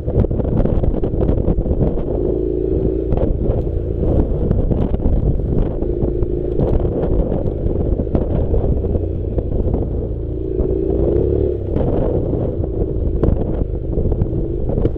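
Honda NC700 motorcycle riding off-road: its parallel-twin engine running steadily under heavy wind rumble on the microphone, with frequent short knocks and rattles from the rough track.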